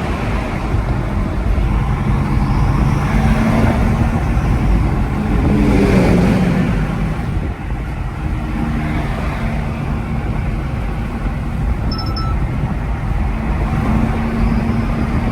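Car driving along the road: steady engine and road rumble with a low hum, swelling about six seconds in.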